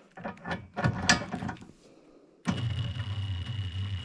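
A small electric lifting motor runs steadily, lowering the load, with a constant whine; it starts a little past halfway and its pitch shifts slightly near the end. Before it, a few light clanks and rattles of parts being handled.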